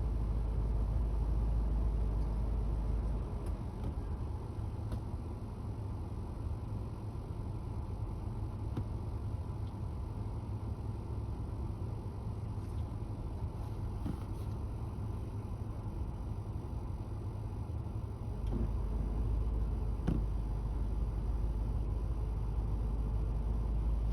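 Fire ladder truck's diesel engine running with a steady low rumble. The rumble drops about three seconds in and rises again a few seconds before the end.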